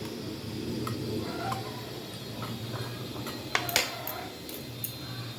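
Spoon and fork clinking lightly against a plate while eating, a few small scattered clicks, with two sharper clinks about three and a half seconds in. A steady low hum sits underneath.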